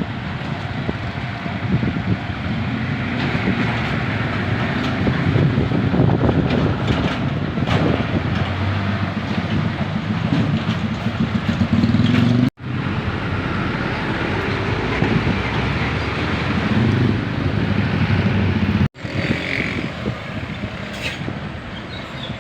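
Heavy trucks on the road: diesel engine rumble and tyre noise swelling and easing as they pass, cut off abruptly twice, about halfway and near the end.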